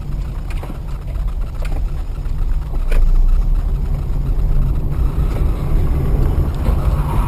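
Steady low rumble of a moving vehicle's engine and road noise, growing somewhat louder about three seconds in.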